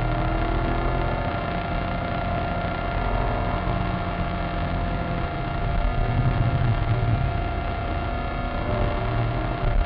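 Maserati Coupé Cambiocorsa's V8 engine and road noise heard from inside the cabin at track speed, the engine note rising and falling with the throttle and loudest about six seconds in.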